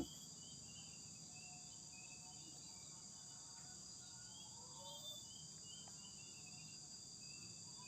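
Faint background insect chorus, a steady high-pitched drone like crickets, with scattered faint short chirps over it.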